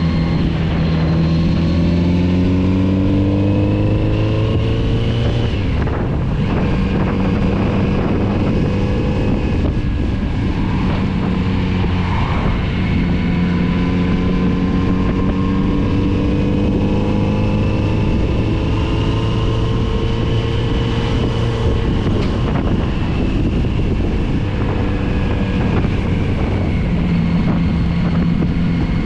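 Kawasaki Z900RS inline-four engine pulling along a winding road, its note climbing in the first few seconds, dropping back about six seconds in, then rising and easing with the throttle. Wind noise on the microphone runs under it.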